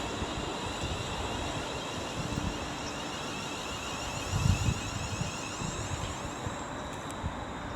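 Wind buffeting the microphone over the faint steady hum and high whine of a Class 350 electric multiple unit standing at the platform just after arriving. The whine fades out near the end.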